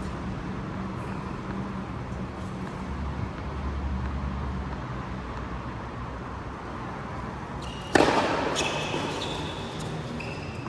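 A single sharp hit of a racket on a ball about eight seconds in, ringing briefly, followed by short high squeaks, over a steady background hum.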